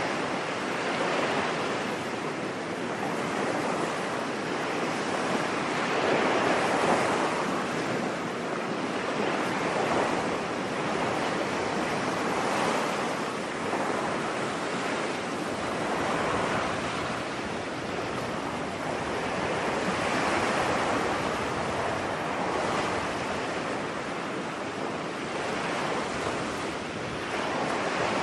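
Ocean waves washing onto a beach: a steady surf hiss that swells and falls every few seconds.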